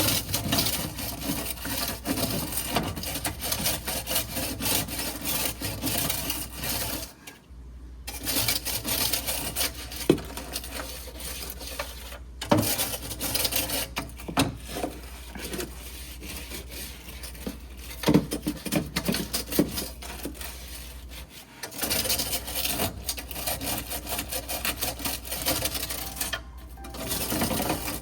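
Refrigerator shelves and walls being scrubbed and wiped, a scratchy rubbing that stops briefly several times. A few knocks come through, as of things set down or bumped against the fridge.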